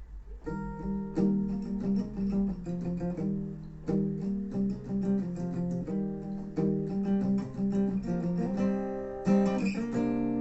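Acoustic guitar playing a song intro: picked and strummed chords start about half a second in, in a pattern that repeats every few seconds.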